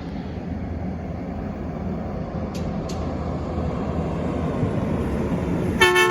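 Garbage truck's engine running and slowly growing louder as it approaches, then its horn blasts with two steady pitches together just before the end.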